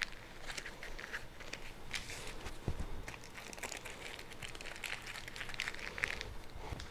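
Aluminium foil crinkling irregularly as the edges of a foil packet are folded up and crimped shut.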